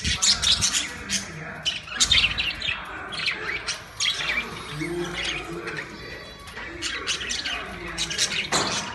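Budgerigars chirping: many short, high calls in quick clusters, with brief pauses between them.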